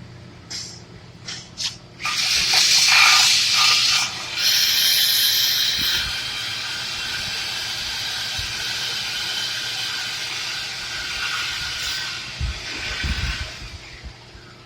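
A few short, sharp hisses, then a loud steady hiss that starts about two seconds in, eases a little after a few seconds and runs on until just before the end, with a few low thumps shortly before it dies away.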